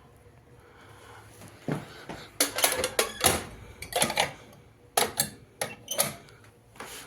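An irregular run of sharp knocks and clatters of hard objects being handled, starting about two seconds in after a quiet start.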